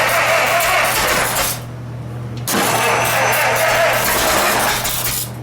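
Rebuilt Model T Ford four-cylinder engine being turned over by its electric starter, cranking in two bursts with a short pause between them.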